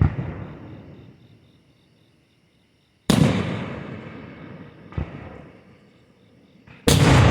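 Aerial fireworks bursting overhead: four sharp bangs, one at the start, one about three seconds in, a smaller one about five seconds in and a loud one near the end, each fading away over a second or more.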